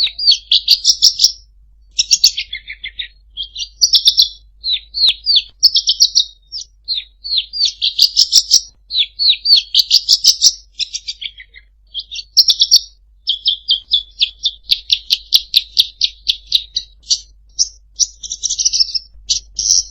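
A songbird singing a fast, varied song of sharp chirps and rapid trills, phrase after phrase with only brief pauses.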